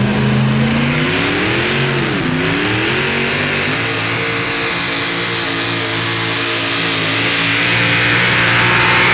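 A pulling truck's naturally aspirated, fuel-injected engine of roughly 650 cubic inches running hard. Its pitch rises, dips briefly about two seconds in, then holds fairly steady and climbs slowly, getting louder toward the end.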